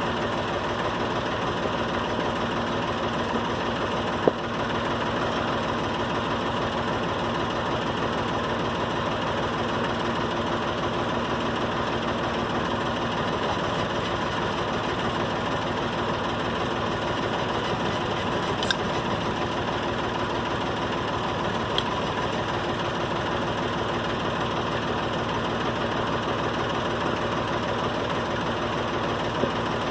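Massey Ferguson 231 tractor's three-cylinder diesel engine idling steadily. A few short sharp clicks sound over it, about four seconds in, twice near the middle and once near the end.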